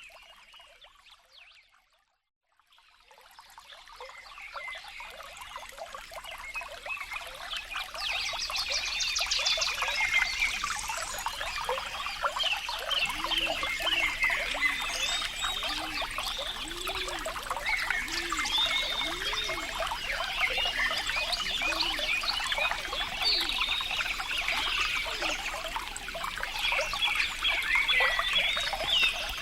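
Trickling, bubbling water that fades out almost to silence about two seconds in, then fades back up over the next several seconds. In the middle, a run of low tones rises and falls about once a second.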